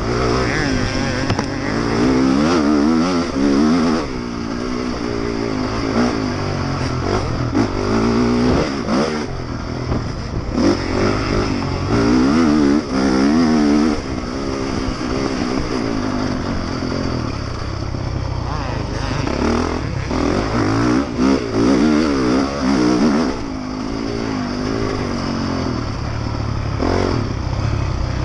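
Honda motocross bike's engine, heard from the rider's helmet camera during a race, revving hard. Its pitch climbs and drops again and again as the throttle is worked through the corners and straights, over a steady rush of noise.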